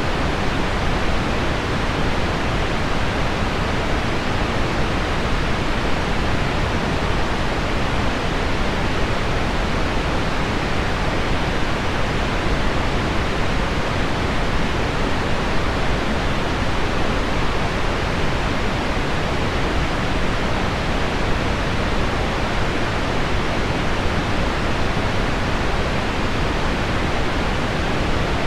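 Steady pink noise mixed with heavy rain on window glass: an even, unchanging hiss in which no separate drop hits stand out.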